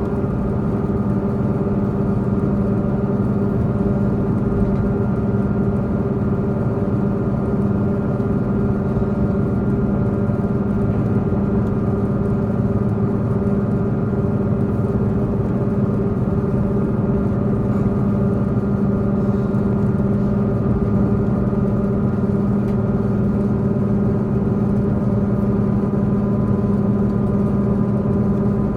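Diesel multiple-unit express train running at speed, heard from inside the carriage: the underfloor diesel engine's steady drone, holding one pitch, over a constant running rumble.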